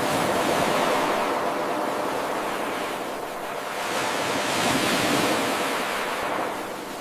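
Ocean waves washing onto the shore as a steady hiss, surging twice and easing off near the end.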